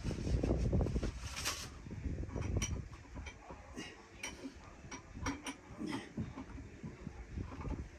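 Hand tools clicking and tapping irregularly against metal, with low bumps of handling, while cable terminals on the boat engine's starter are being undone.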